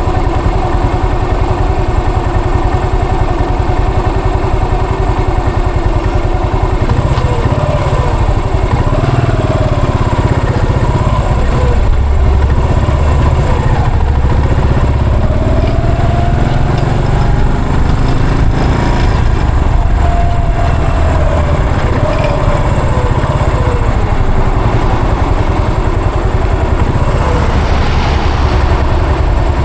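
Yamaha SR400's air-cooled single-cylinder four-stroke engine running under way, with a steady low thumping. In the middle stretch its pitch rises and falls several times as the revs change.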